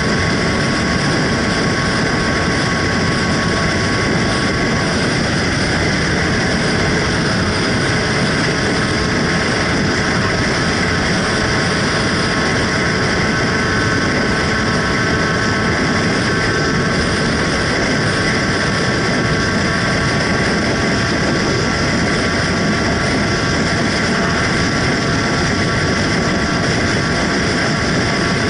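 Steady motorcycle engine noise with no revving or pauses.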